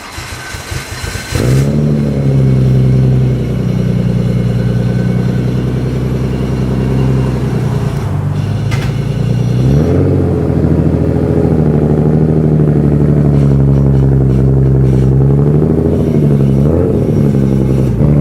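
Nissan R34 GT-R's RB26 twin-turbo straight-six, built as a 2.8 stroker, running at steady revs. It comes in suddenly after about a second of noisy sound, with a sharp click about nine seconds in and small rises in revs around ten seconds and near the end.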